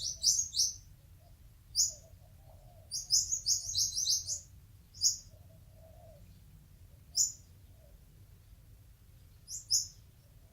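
New Holland honeyeaters calling with short, sharp, high chirps: a quick run of them at the start and another about three seconds in, then single chirps a couple of seconds apart and a close pair near the end.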